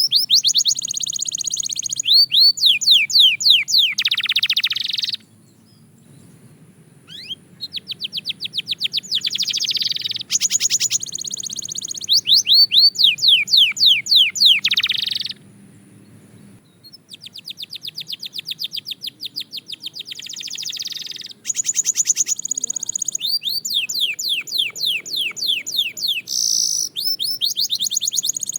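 Belgian canary singing long, fast trills of rapidly repeated downward-sweeping notes, changing the note and tempo from phrase to phrase. The song breaks off briefly twice, about five seconds in and again around sixteen seconds in.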